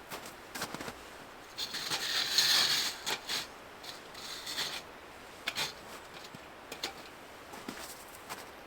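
Scattered light clicks and taps, with a louder burst of rustling about two seconds in and a shorter one near the middle.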